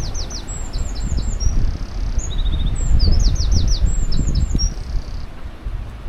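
A songbird singing the same short, quick phrase of sharp falling notes twice, over wind buffeting the microphone.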